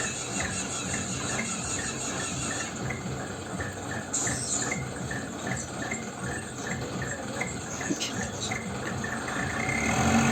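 Night insects: crickets chirping in an even rhythm, about three chirps a second, over a high steady insect buzz that fades out about a quarter of the way in, with a low steady rumble underneath.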